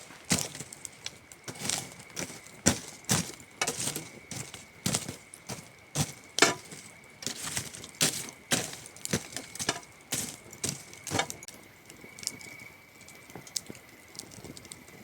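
Campfire wood crackling and popping in sharp, irregular snaps, thinning out after about eleven seconds, with a steady high cricket trill underneath.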